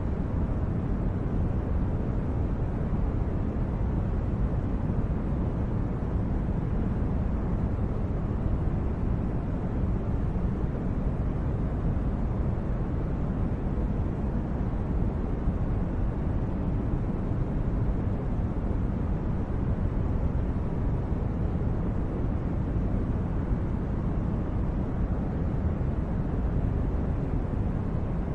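Steady, deep rumbling noise that never changes: a sleep-sound background bed of the brown-noise kind, with most of its weight low and little hiss on top.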